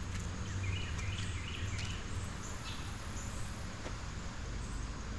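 Low steady rumble of riding noise on a bike-mounted action camera's microphone, with a short run of high chirping bird calls about a second in and insects buzzing faintly.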